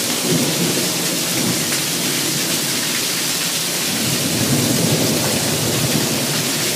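Heavy downpour: a steady hiss of rain with water pouring off the roof edge, and a low rumble underneath that swells and fades without a sharp crack.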